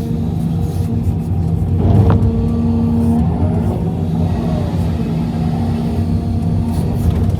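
Hitachi EX350LC hydraulic excavator's diesel engine running steadily under working load, with a brief swell in level about two seconds in.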